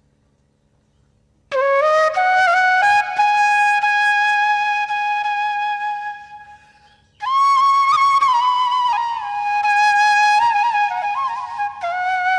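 Solo flute music: a slow melody of long held notes with slides and ornaments between them. After a near-silent opening, the first phrase starts about a second and a half in, and a second, higher-starting phrase descends from about seven seconds in.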